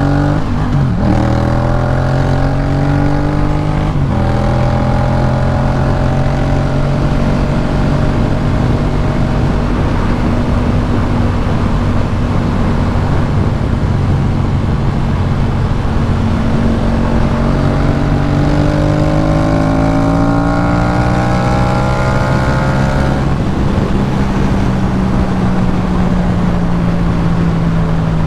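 2018 Yamaha MT-07's 689 cc parallel-twin engine through a Jeskap K4 full exhaust while riding. The engine pitch drops with gear changes about a second in and around four seconds, holds steady while cruising, then climbs under acceleration for about five seconds before dropping with an upshift.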